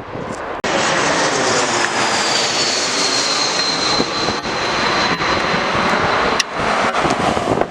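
Jet airliner engines passing close by: a loud rush with a high whine that falls slightly in pitch, starting abruptly about half a second in.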